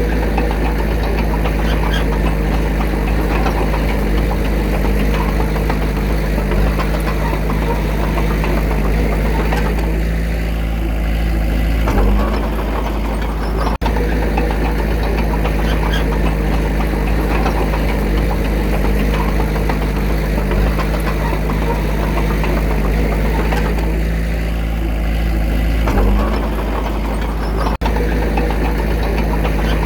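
Diesel engine of a Komatsu D21A bulldozer running steadily under work. Its note lightens for a couple of seconds and then surges briefly, twice, about fourteen seconds apart, as the load changes.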